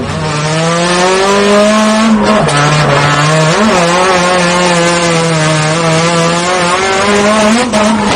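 Turbocharged SR20 four-cylinder engine of a Nissan Silvia S15 drift car held high in the revs under load, its note dropping and climbing again in steps several times, with tyres squealing and hissing beneath it.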